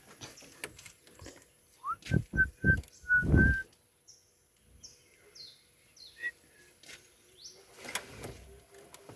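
Birds chirping: a series of short, high, falling chirps in the second half. Before them, about two seconds in, comes a louder run of thumps under a held whistle-like tone.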